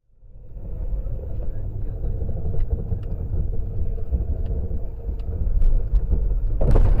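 Car driving, heard from inside: a steady low road and engine rumble that fades in during the first second. A short, loud, sharp sound comes near the end.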